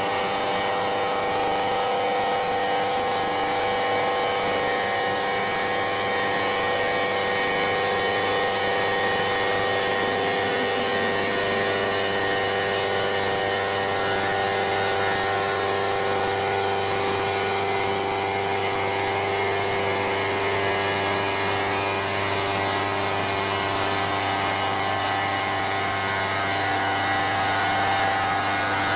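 CNC stone router machining quartz stone: the spindle and machine run steadily, with a continuous whine made of several fixed tones over a rushing noise.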